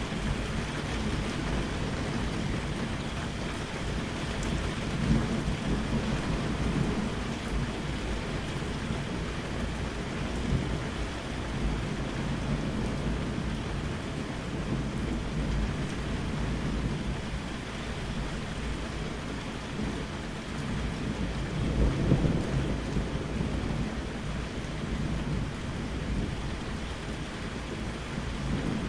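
Steady rain falling, with thunder rumbling low underneath and swelling several times, most strongly about two-thirds of the way through.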